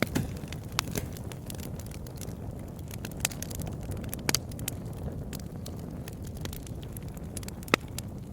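Campfire burning with a steady low rush, crackling and popping at irregular intervals; the loudest sharp pops come just after the start, around the middle and near the end.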